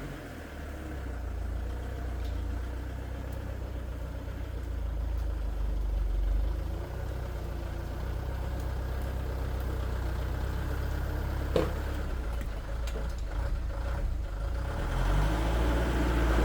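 A motor vehicle's engine running steadily with a deep rumble, and a single sharp knock about two-thirds of the way through.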